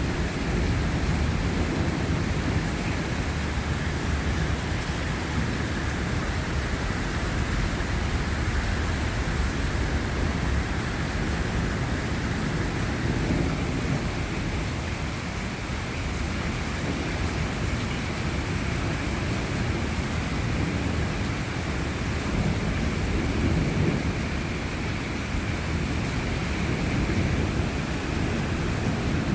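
Steady rain falling, with low thunder rumbling underneath that swells now and then.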